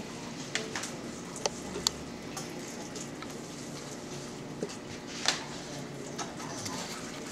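Scattered light clicks and clinks of small objects being handled, about eight in all, the loudest a little after five seconds in, over a steady low room hum.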